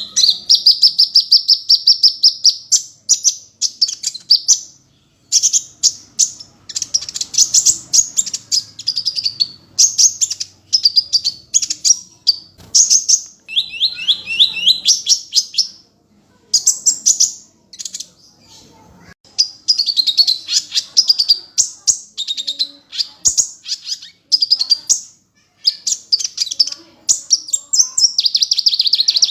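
Kolibri ninja sunbird singing: rapid, high-pitched chirping trills delivered in phrases of one to two seconds, separated by short pauses.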